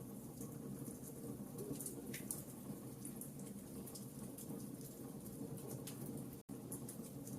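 Wood fire in a fireplace crackling, with irregular small pops and snaps over a steady low hiss of the flames. The sound drops out completely for a split second late on.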